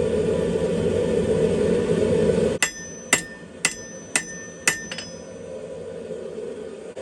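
A steady rushing noise cuts off suddenly about two and a half seconds in. Then come five hammer blows on steel at the anvil, about two a second, each leaving a bright metallic ring, and a lighter tap after them.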